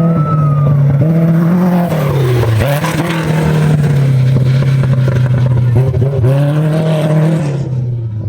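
An off-road race vehicle's engine at high revs, loud and steady. Its pitch dips twice, a few seconds apart, and climbs back each time, as with a shift or a lift off the throttle.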